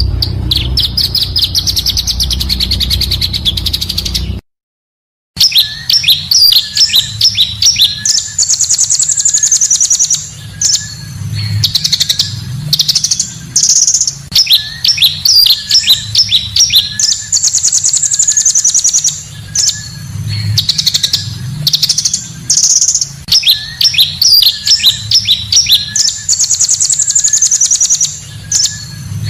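Song of the bird sold in Indonesia as 'pancawarna', played as a lure call: rapid high trills and sharp chirps. There is a short dropout about four seconds in, after which the same run of phrases repeats about every nine seconds over a faint low hum.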